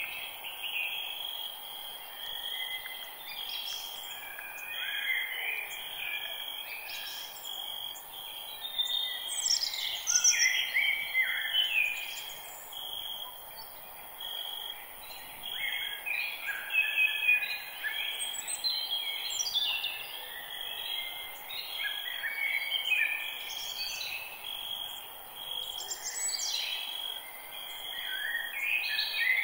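Forest birdsong: several birds singing and calling over one another in quick chirps and sweeping notes, over a steady high buzz and a faint hiss.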